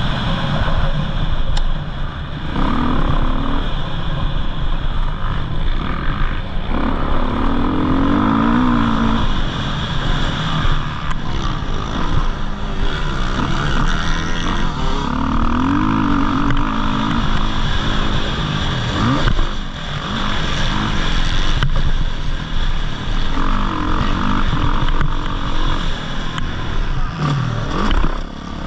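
Motocross dirt bike engines revving on the track, their pitch climbing and falling again and again as riders open and close the throttle, swelling every few seconds over a steady low rumble.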